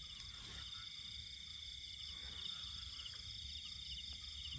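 Faint chorus of insects trilling steadily at a high pitch, with a low rumble underneath.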